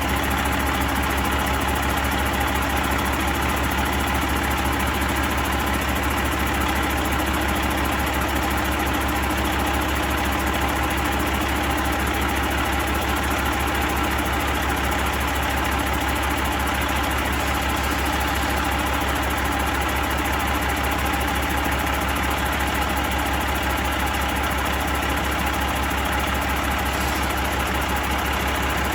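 Detroit Diesel Series 60 14.0-litre inline-six diesel engine idling steadily at an even speed.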